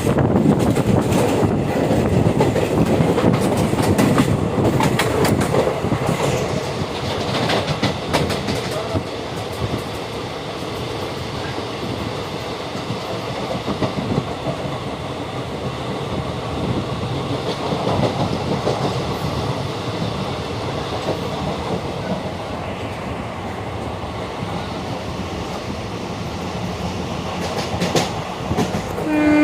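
Train running on the rails with steady rumble and wheels clicking over rail joints, louder for the first several seconds and then settling. A short pitched tone sounds at the very end.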